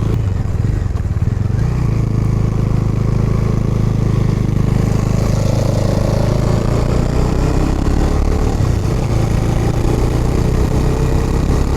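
Motorcycle engine running steadily while being ridden along the road.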